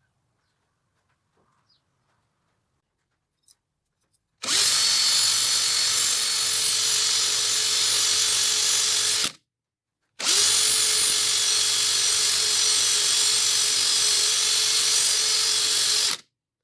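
A handheld power tool running at a steady speed in two runs, about five and six seconds long, each starting and stopping abruptly, with a short break between them.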